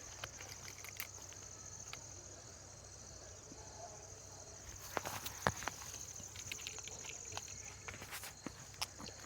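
Insects trilling in a steady high chorus, with scattered sharp clicks and knocks, a cluster of them about five seconds in.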